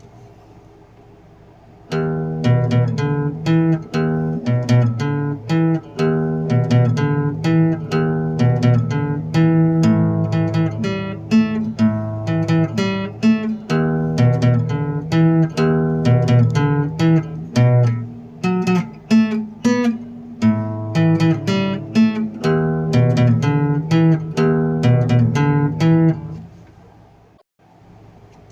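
Acoustic guitar music, picked and strummed with a steady rhythm, starting about two seconds in and fading out shortly before the end.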